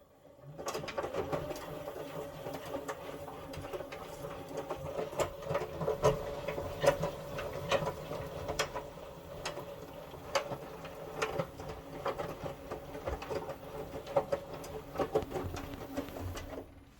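Indesit 1400-spin washing machine's motor driving the drum round by its belt during the wash, a steady mechanical hum with many irregular clicks and knocks. It starts about half a second in and stops just before the end, one tumbling turn of the wash cycle between pauses.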